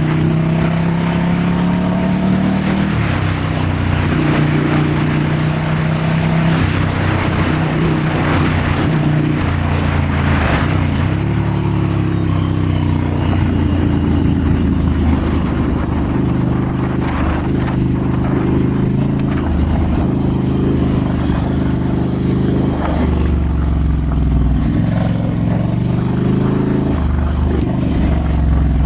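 Ducati Scrambler's air-cooled L-twin engine on the move off-road, its pitch rising and falling with the throttle and dropping sharply a few times as the rider backs off or shifts.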